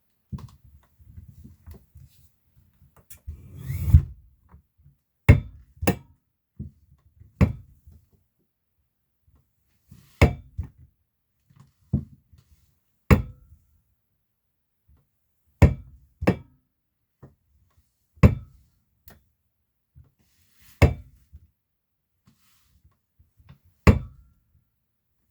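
Ergohuman Pro office chair giving a sharp spring-like knock each time the unlocked backrest is rocked through its recline, about a dozen knocks one to three seconds apart, with faint creaking between. The noise persists even after the gas cylinder tip was greased, and the owner suspects the gas cylinder.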